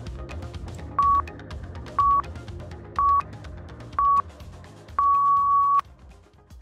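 Workout interval timer counting down: four short beeps a second apart, then one long beep of the same pitch, marking the change between work and rest intervals. Electronic music with a steady beat plays underneath.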